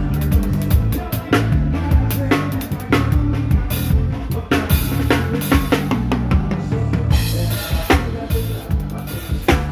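A live band playing an instrumental passage: a drum kit with kick, snare and rimshots keeping a busy beat over a low bass line that moves from note to note.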